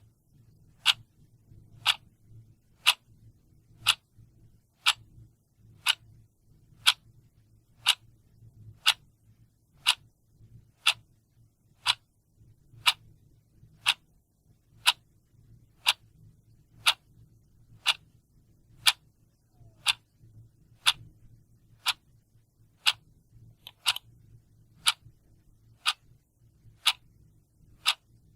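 A clock ticking steadily, a sharp tick about once a second.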